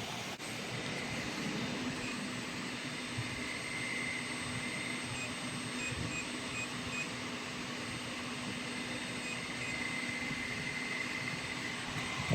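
3000 W four-in-one fiber laser welding machine running: a steady hiss and hum with a faint high whine, and a few faint short pips in the middle.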